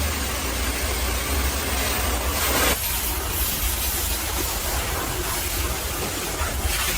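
High-pressure water spray hissing against a truck over a steady low engine rumble. Near the middle, a thin high whine stops and the spray changes character.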